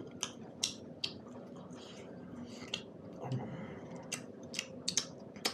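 Close-up mouth sounds of a man eating buffalo meat and millet dhido by hand: chewing with a string of short, irregular wet lip smacks and clicks, the sharpest near the end.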